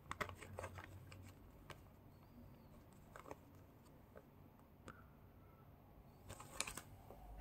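Faint clicks and rustles of small plastic mini building blocks and their packaging being handled, busiest at the start and again near the end.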